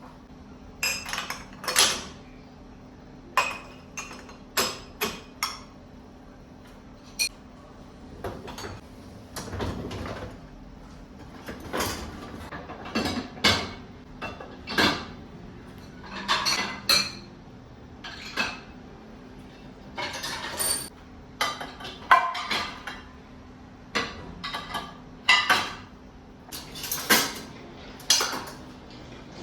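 Dishes and kitchen utensils being handled: a string of separate clinks, knocks and clatters every second or so, over a steady low hum.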